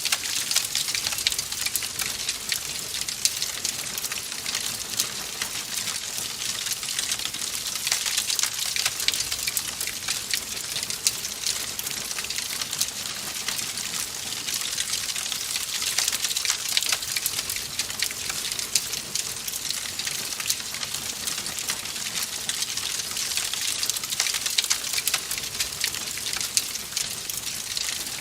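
Wood fire crackling in a fireplace: a steady hiss dense with small sharp snaps and pops.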